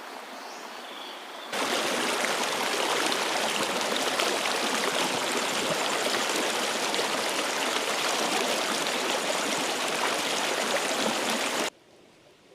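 River water rushing in a steady, even wash, starting abruptly about a second and a half in and cutting off suddenly just before the end.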